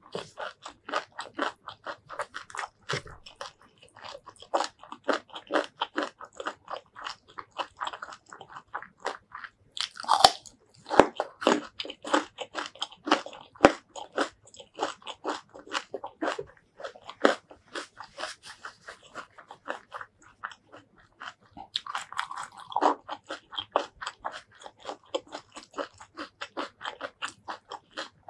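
Close-miked chewing of a mouthful of spicy shrimp curry rice with stink beans and raw vegetables: steady, wet chewing at about three chews a second, with crisp crunches. A few louder crunchy bites stand out, the loudest about ten seconds in and again past twenty seconds.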